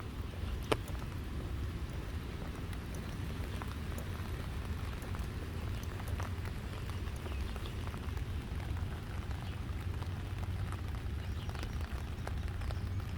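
Rain falling, with scattered drops ticking on nearby surfaces, over a steady low rumble.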